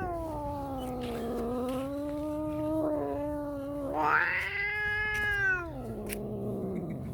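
Two angry cats caterwauling. A long, low, wavering yowl is followed about four seconds in by a higher yowl that rises, then slides down in pitch and trails off near the end.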